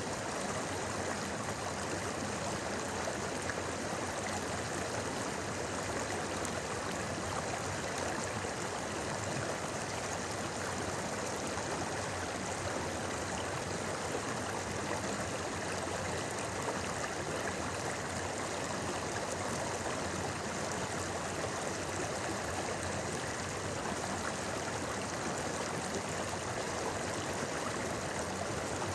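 A river babbling, its water running steadily with no changes or separate events.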